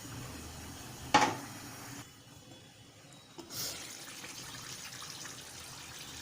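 Tap water running into a vessel while rice is washed, with a sharp knock about a second in; the flow goes quiet for a second or so near the middle and then runs again.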